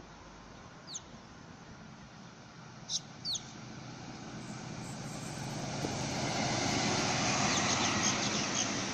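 Sydney Trains double-deck electric train approaching through the station, its running noise growing steadily louder from about halfway through and then holding. A few short, falling bird chirps come near the start.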